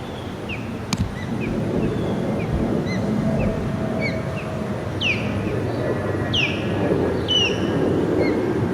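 Jet airliner departing Reagan National, its low rumble slowly growing louder. Birds chirp repeatedly over it with short downward-sweeping chirps.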